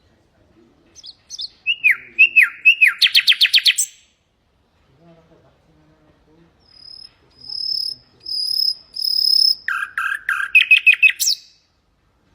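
Common nightingale singing two phrases. The first has down-slurred notes running into a fast run of repeated notes. The second is a series of long, pure, high whistles growing louder and ending in a quick rattle.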